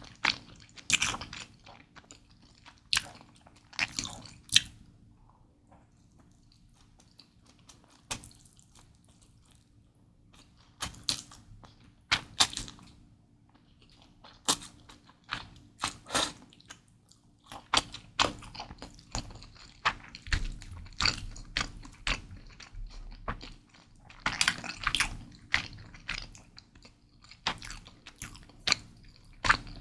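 Close-miked eating of Mi Goreng fried instant noodles: wet chewing, slurping and smacking in irregular clusters of short sharp clicks, with a quieter pause about five to ten seconds in.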